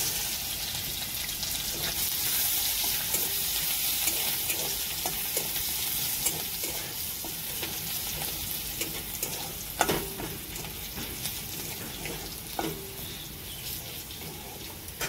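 Chopped garlic and a dried red chilli sizzling in hot oil in a kadai, stirred with a metal spatula that scrapes and taps the pan. The sizzle is loudest at first and eases off, with a sharper clack about ten seconds in and another a few seconds later.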